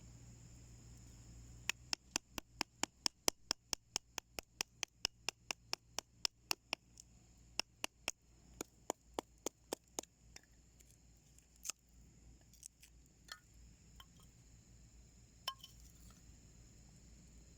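Rapid run of sharp pops and clicks, about four a second, then fewer and scattered near the end: wood crackling as it burns in a small homemade wood stove.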